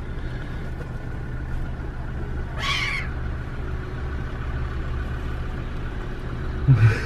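A seagull gives one short call about two and a half seconds in, over a steady low rumble.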